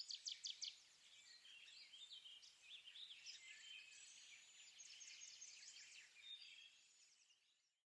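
Faint songbirds singing and chirping: a quick run of repeated notes in the first second, then scattered chirps and short trills from several birds, fading out near the end.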